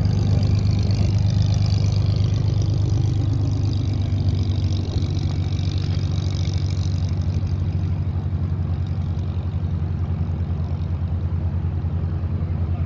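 Supermarine Spitfire's piston aero engine running with a deep, rapid pulsing beat. It eases off slightly about five seconds in, then runs on steadily.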